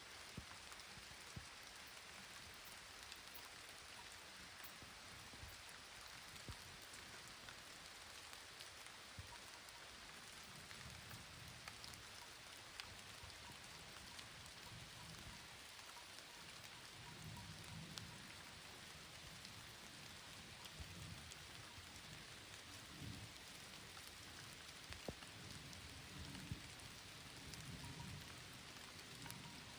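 Light rain falling, a faint steady patter with scattered ticks of single drops. A low rumble comes and goes through the second half.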